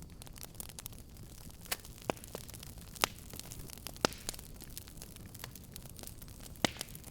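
Wood fire crackling over a steady low rumble of flame, with scattered sharp pops. The loudest snaps come about three, four and six and a half seconds in.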